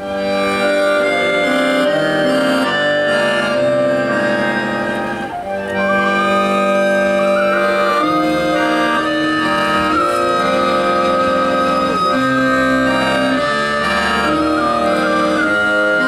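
Live folk band music led by accordion: sustained chords with a high, wavering melody line above them and a moving bass line underneath, dipping briefly about five seconds in.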